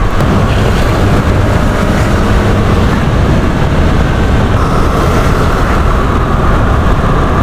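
Loud, steady wind rush on the microphone of a moving motorbike, with engine and road noise underneath. A faint steady whine joins about halfway through.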